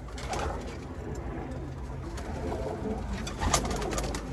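Cumulet pigeons cooing in their coop, with a couple of sharp clicks about three and a half seconds in.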